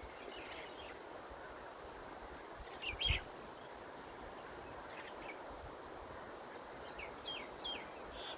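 Birds chirping over a steady outdoor background hiss. The loudest chirps come about three seconds in, and a quick run of short, falling chirps comes near the end.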